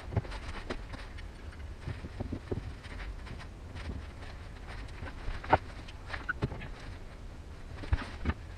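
Irregular knocks and clicks of hands and tools at work, most likely clamps being set on the freshly glued acrylic galley panel. The sharpest knock comes about five and a half seconds in and two more come near the end, over a steady low rumble.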